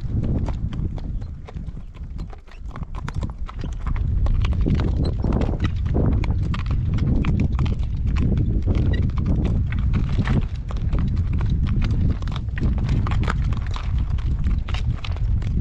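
A horse's hooves clip-clopping at a walk, a steady run of sharp hoofbeats. Wind buffets the microphone underneath.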